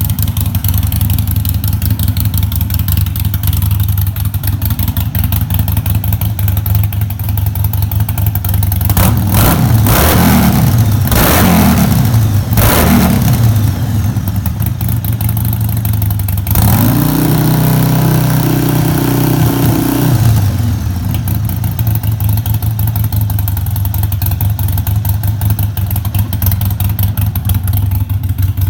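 Harley-Davidson Sportster Iron 1200's air-cooled V-twin idling through straight-through slip-on mufflers, really loud. Several quick blips of the throttle come about nine seconds in, and just past the middle the revs are held higher for a few seconds before dropping back to idle.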